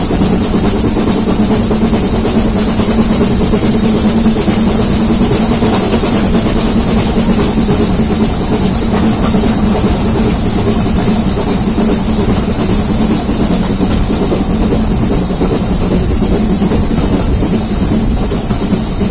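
Steam-hauled heritage train running steadily, heard from a carriage near the locomotive: a continuous loud rumble with a steady hiss over it.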